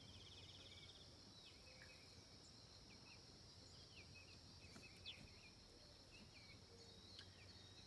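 Faint outdoor evening chorus: insects keep up a steady high-pitched shrilling, with scattered short bird chirps and a brief trill at the start.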